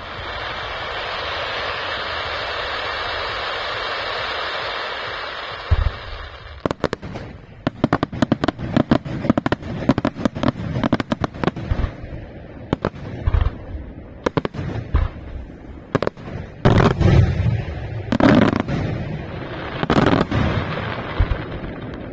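Fireworks display opening: a steady hiss for about six seconds, then rapid volleys of sharp bangs and crackles, with a few heavier booming bursts in the last several seconds.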